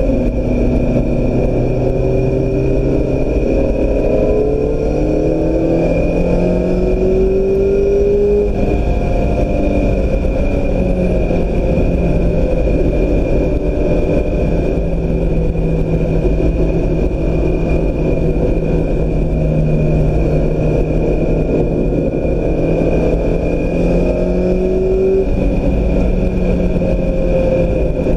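2016 Mazda MX-5 Miata's four-cylinder engine running under load, its pitch rising and falling as the car accelerates and shifts, over a heavy low road rumble and a steady high whine.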